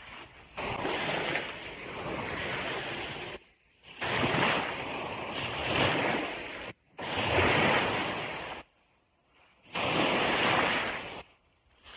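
Ocean waves breaking and washing on a beach in four surges, each cutting off abruptly into a brief near-silent gap.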